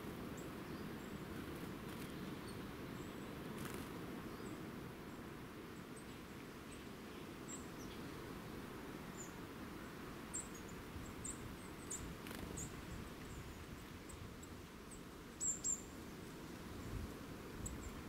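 Small garden birds giving short, very high, thin call notes, scattered and irregular, with two louder notes about three-quarters of the way through, over a steady low outdoor background rumble.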